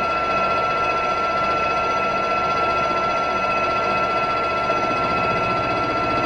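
A machine tool running steadily, a constant high whine over a mechanical hum.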